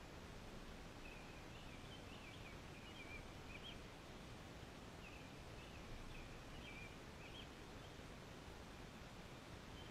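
Faint songbird song, short warbled phrases in two runs, over a steady quiet outdoor hiss.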